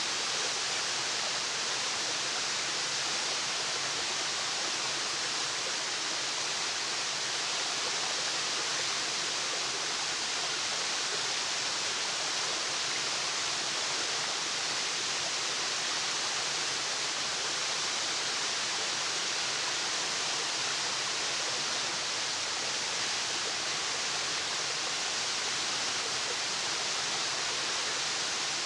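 Waterfall: a steady, even rush of falling water with no breaks, its hiss strongest in the upper range.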